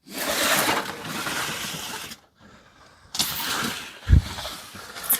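Rustling and scraping as the contents of a storage box are handled and rummaged through, in two bursts, with a dull thump about four seconds in.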